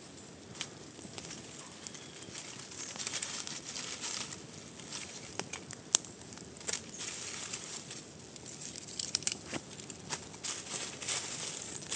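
Irregular rustling and crackling with scattered sharp clicks and snaps, one louder snap about six seconds in.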